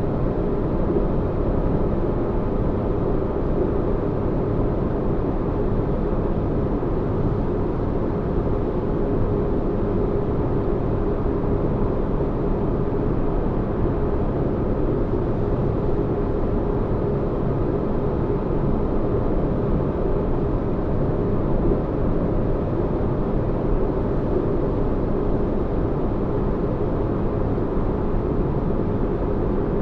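Sci-fi spaceship interior ambience: steady, deep rumbling noise with a faint even hum, unchanging throughout.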